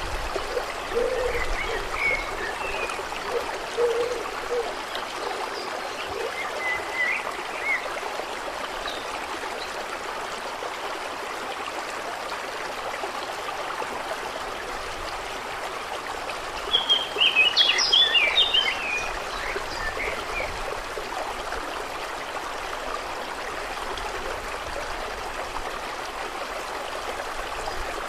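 Steady trickling, flowing water, with a few short low frog croaks during the first five seconds and scattered bird chirps; a quick flurry of bird chirps about two-thirds of the way through is the loudest moment.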